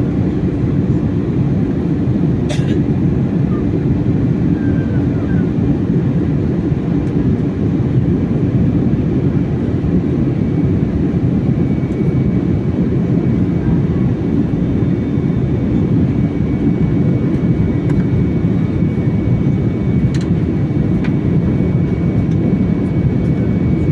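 Steady airliner cabin noise: the low rumble of the jet engines and airflow heard from inside the passenger cabin. A single click sounds about two and a half seconds in, and a faint high whine joins about halfway through.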